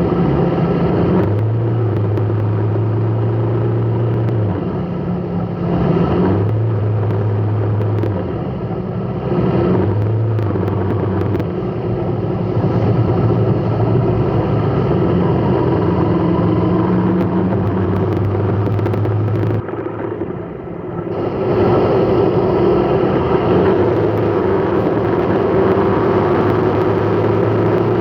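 Road vehicle running, with a steady engine hum and road noise; the hum steps between two pitches and the sound dips briefly about twenty seconds in.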